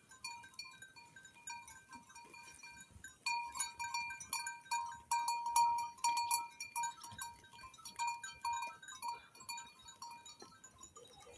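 Bells on a flock of grazing sheep clinking irregularly, busier and louder from about three seconds in.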